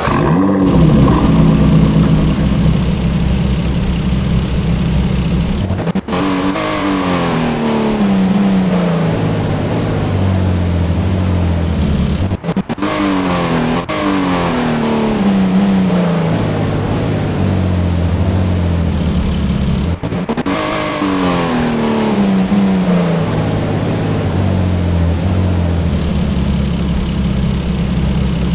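BMW car engine running and being revved: it picks up and holds high revs for several seconds, then three times the revs fall away slowly in long downward sweeps and settle back to a steady idle.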